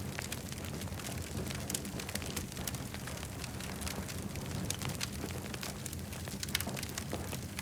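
Campfire burning with frequent sharp crackles and pops over a steady low rumble.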